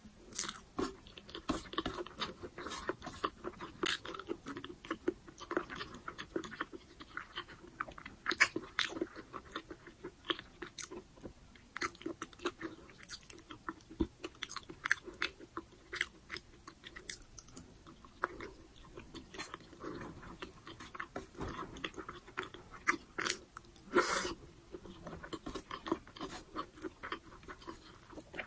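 A person chewing braised pork humba and rice, with many short, sharp, irregular mouth clicks and smacks.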